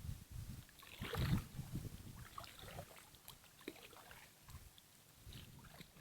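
Kayak paddling: irregular paddle strokes swishing and splashing in the water, with small knocks of the paddle, loudest about a second in.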